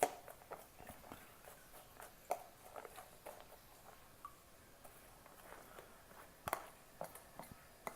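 Faint, scattered clicks and taps of kitchen utensils against a bowl, a few seconds apart, the sharpest about six and a half seconds in.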